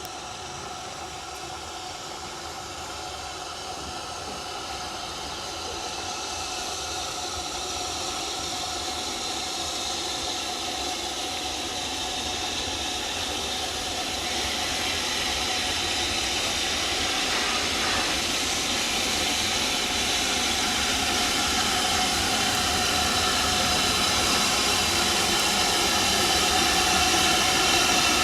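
Steam locomotive letting off steam: a steady hiss with a faint whistling edge, with no exhaust beats, that swells gradually louder.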